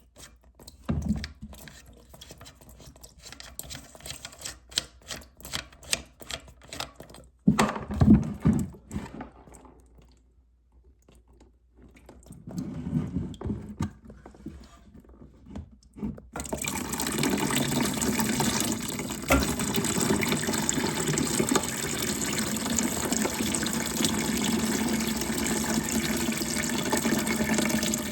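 Scattered clicks and knocks of parts being handled, then a little past halfway a sudden, steady rush of water as a toilet tank fills through its fill valve.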